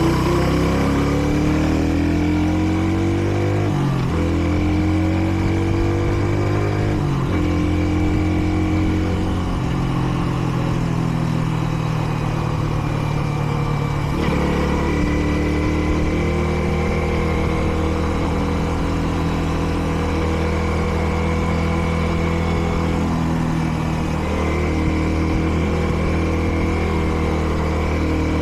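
Kreidler Dice CR 125 motorcycle's single-cylinder engine pulling through the gears. Its pitch climbs and drops back at each shift, three or four times in the first ten seconds, then it settles into a fairly steady cruise. The engine is still being run in, with under 400 km on it.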